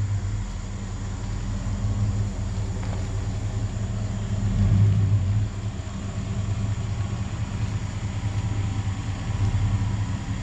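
Road noise inside a Chevrolet Suburban's cabin while driving: the rough-tread tires hum and the engine runs, a steady low drone.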